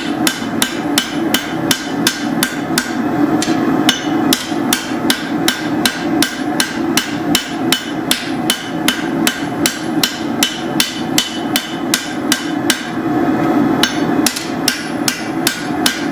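Hand hammer striking hot steel on an anvil in steady forging blows, about three a second, drawing out a machete blade. The blows stop briefly about four seconds in and again for about a second late on, over a steady low rush.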